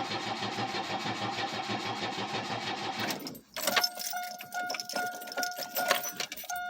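Chevrolet Cavalier's starter cranking the flooded engine with the accelerator floored, turning over in an even rhythm without catching, then stopping about three seconds in. After that comes a steady, broken tone with scattered clicks.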